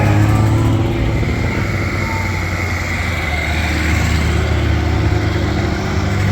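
A car engine running steadily close by, with a low hum.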